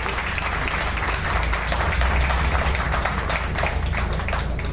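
Crowd applauding, many hands clapping at once over a steady low rumble.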